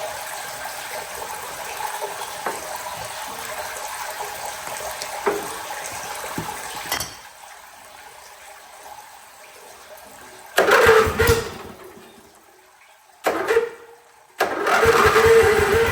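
Water hissing and spraying from a Hotsy pressure washer's hose. It runs steadily, turns quieter, then comes in short loud spurts that start and stop abruptly, before a steadier loud spray near the end.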